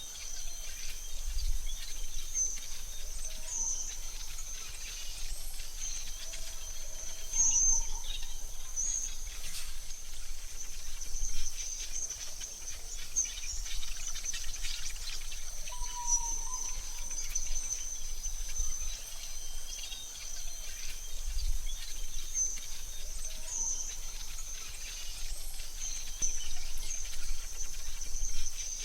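AI-generated forest ambience: a steady, high insect trill under a low rumble, with scattered short bird chirps, one of them about sixteen seconds in.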